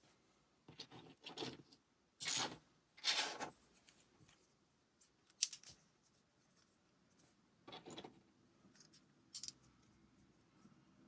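Lego parts and packaging handled during building: a handful of short scraping, rustling noises and one sharp click about five seconds in.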